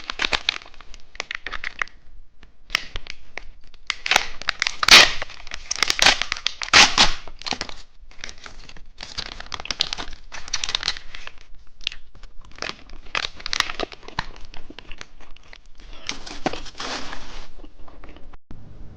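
Plastic candy wrapper crinkling and tearing as a two-colour cheese stick is unwrapped: irregular rustles and rips, the loudest between about four and seven seconds in.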